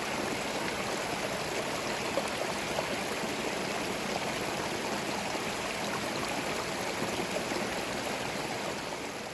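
Forest stream flowing, a steady rush of water that fades out near the end.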